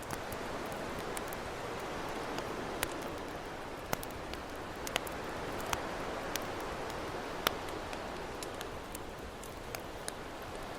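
Campfire crackling, with sharp irregular pops and snaps, over a steady wash of ocean waves that swells and eases slowly.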